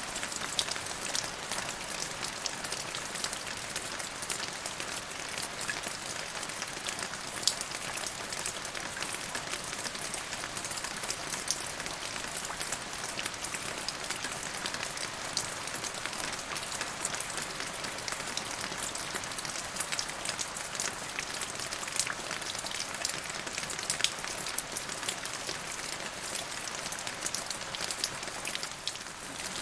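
Steady rain falling on a surface, an even hiss dense with the fine ticks of individual drops.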